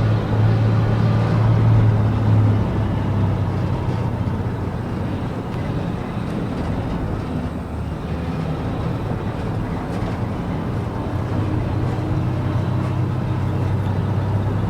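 An old grain truck's engine running as it drives, with road noise. Its steady low drone eases about two and a half seconds in and builds again near the end.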